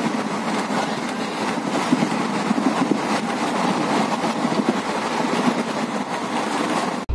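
Netaji Express passenger train running at speed, heard from inside a coach at an open window: a steady, loud noise of wheels on rails.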